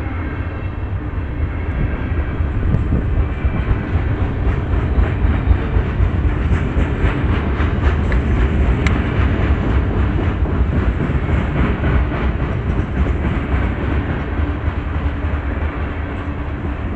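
CSX freight train cars rolling through a grade crossing: a steady low rumble of steel wheels on rail with a rapid clatter of wheels over the rail joints, loudest through the middle.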